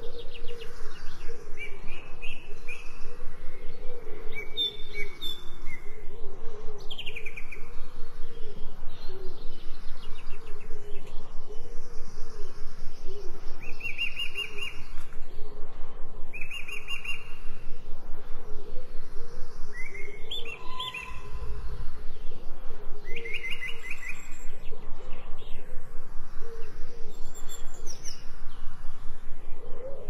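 Wild birds chirping and singing, with short high trills every few seconds over a steady background of lower chatter.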